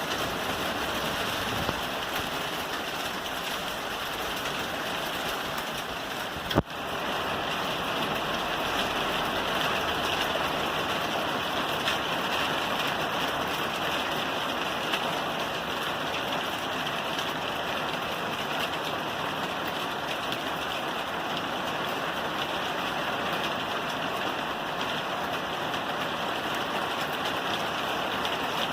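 Steady rain falling on a roof, an even hiss of drops with no let-up. A single sharp click about six and a half seconds in.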